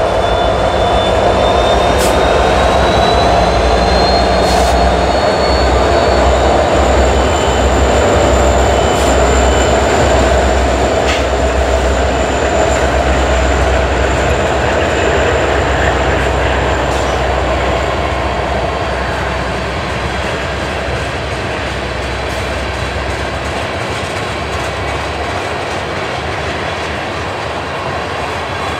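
Diesel freight locomotives passing close by, their engines running with a heavy low rumble, followed by the freight cars rolling past with steady wheel-on-rail clatter. The engine rumble fades about three-quarters of the way through as the tank cars take over, and a thin high whine rises slightly in the first few seconds.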